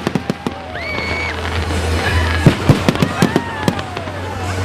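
Fireworks display going off: a fast, irregular run of sharp bangs and crackling pops, with a few whistling tones sliding in pitch.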